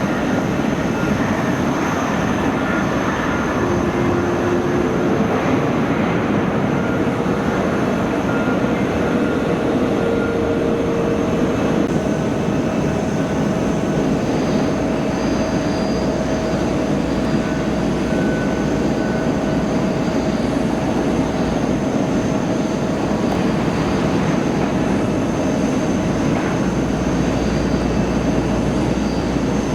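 Jet airliner engines running, a steady loud rush with a whine that steps up in pitch during the first half and then holds.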